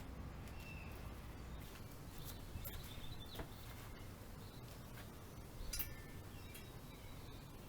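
Scattered light metallic clicks and clinks of hand tools against small bicycle parts during disassembly, the loudest about six seconds in.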